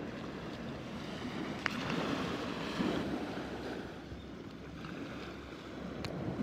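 Surf washing onto a sandy beach, the wash swelling and easing, with a couple of sharp clicks over it.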